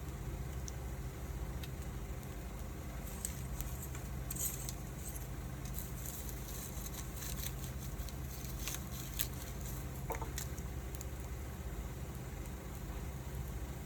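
Wood fire crackling, with scattered sharp pops and ticks, over a steady low rumble.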